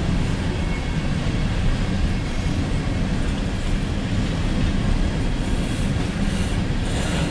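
Empty coal train's cars rolling past at speed: a steady noise of steel wheels on rail, strongest in the low end.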